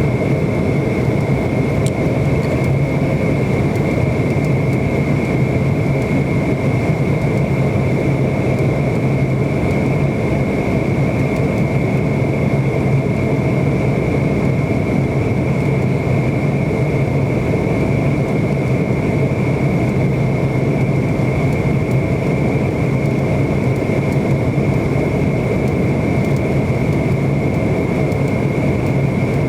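Steady engine and airflow noise from a McDonnell Douglas MD-90 with its rear-mounted IAE V2500 turbofans running, heard as an unchanging rush with a steady whine and a low hum.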